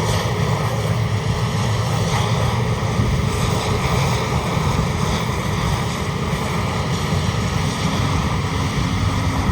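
AgustaWestland EH-101 Merlin helicopter with its three turboshaft engines and main rotor running, a steady, even rushing noise heavy in the low end.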